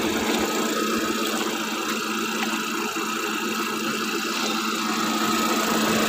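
A car's engine idling with a steady, even hum.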